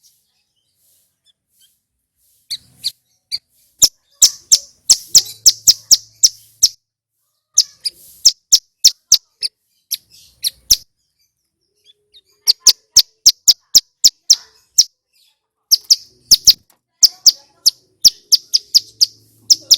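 Male ciblek gunung (mountain prinia) singing in loud runs of sharp, rapid, high-pitched notes, with short pauses between runs, after a couple of seconds of quiet at the start.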